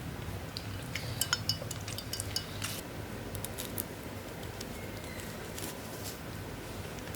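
Light clinks and taps of cutlery and dishes, with a few ringing clinks about a second in, then scattered softer taps, over a low steady hum.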